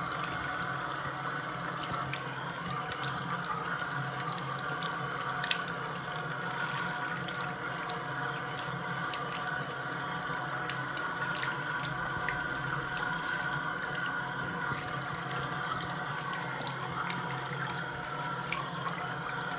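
Water running steadily from a tap into a sink, with faint scattered clicks and knocks.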